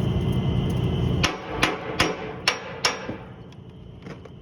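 A steady low rumble that stops about a second in, then five sharp metal knocks with a brief ring, struck on the steel plate and housing of a paint sandmill as the bottom plate is taken down.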